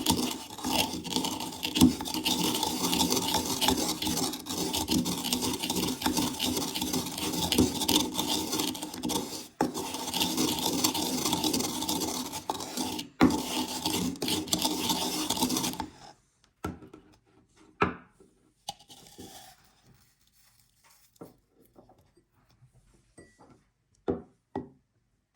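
A spice grinder grinding Doritos tortilla chips: a continuous rasping grind over a steady hum, briefly cut twice, stops a little past halfway. After that come a few scattered light clicks and knocks.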